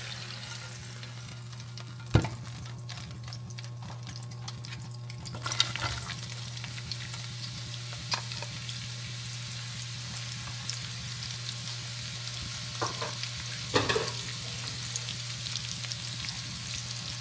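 Sliced onions sizzling in oil in a frying pan as they are sautéed and stirred, with a few sharp knocks of a utensil against the pan, the loudest about two seconds in. A steady low hum runs underneath.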